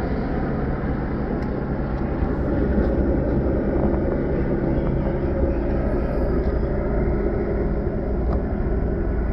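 Steady engine rumble with a constant low hum that neither rises nor falls.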